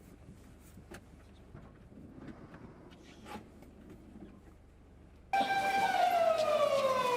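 Faint scattered clicks and knocks for about five seconds, then a loud wailing siren cuts in suddenly, its pitch sliding slowly downward.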